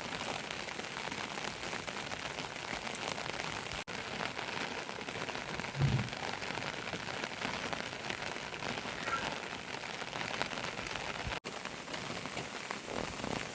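Steady rain falling, with one dull low thump about six seconds in.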